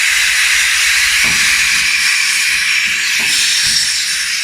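R22 refrigerant gas hissing out steadily at the loosely fitted suction-pipe flare nut of a split air conditioner as the liquid-line service valve is cracked open, purging air from the refrigerant lines. The hiss cuts off sharply near the end.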